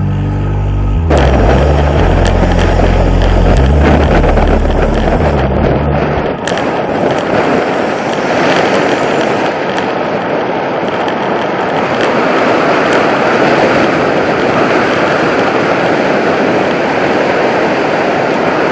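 Strong wind rushing over the microphone of a moving bicycle ride, a loud steady rush. Electronic music's bass runs underneath for about the first six seconds, then drops out.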